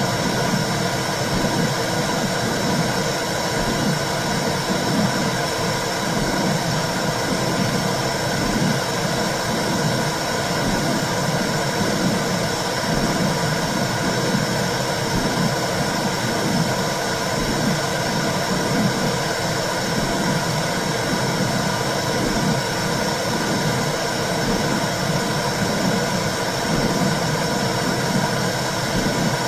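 Womb sound for calming a baby: a steady low rushing drone with a regular whooshing pulse.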